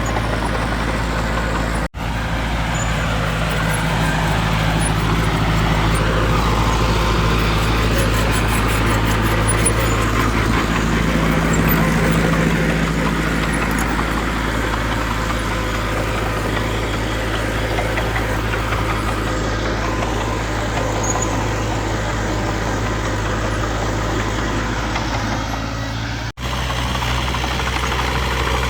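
Diesel engines of a dump truck and bulldozer running steadily at a landfill site. The sound drops out for an instant twice, once about two seconds in and once near the end.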